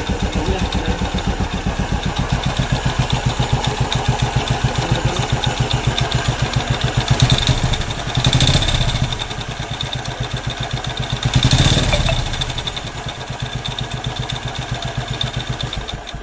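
Royal Enfield Classic 350's single-cylinder engine idling with a regular thump, revved up twice in the middle, then cut off at the end. It is a test run to check whether the knock on starting is still there.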